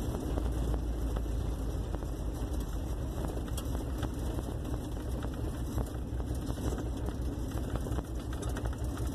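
Engine of a 1958 Plymouth Suburban running steadily as the car is manoeuvred, with no power steering.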